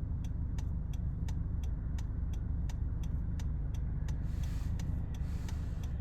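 Car driving on the road, heard from inside the cabin: a steady low road rumble with an even clicking about three times a second, and two short hisses about four and five seconds in.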